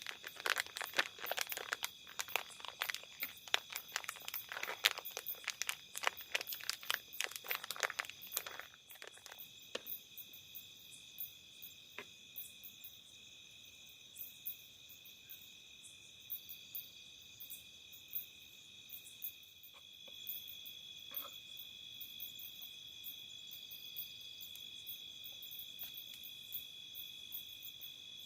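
Insects chirping steadily in a high, continuous drone, a little louder in the last third. For the first nine seconds or so a dense run of crackling, crinkling handling noises sits over it, then only a few scattered clicks.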